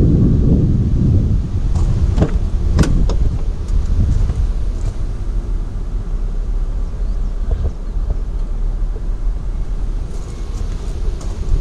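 Wind buffeting the microphone as a steady low rumble, heaviest at the start, with a few scattered sharp clicks and knocks.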